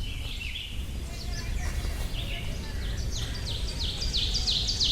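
Wild birds calling: a brief high chatter at the start, then a quick run of sharp, down-slurred whistled notes, about four a second, getting louder toward the end, over a steady low background rumble.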